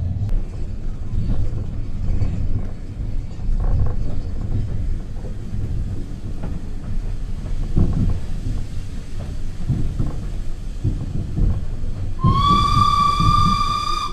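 Railway carriage rumbling along the track, heard from inside the compartment, with occasional knocks from the running gear. About twelve seconds in, the locomotive's whistle sounds one long steady note that slides up slightly as it starts.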